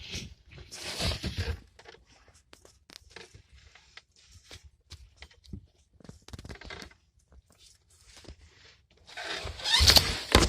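Intermittent rustling and scraping with small clicks, louder about a second in and again near the end.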